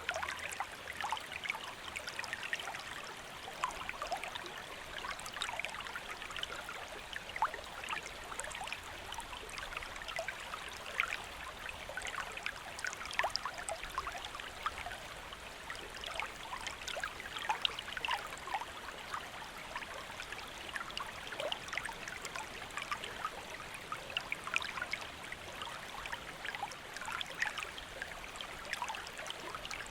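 A shallow stream flowing over stones: steady babbling and trickling water, full of small splashes and drips.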